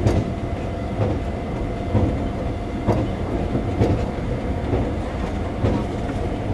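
Taiwan Railway EMU400 electric multiple unit running at speed, heard from inside the passenger car: a steady rumble of wheels and running gear, with a wheel click over a rail joint about once a second and a faint steady whine above it.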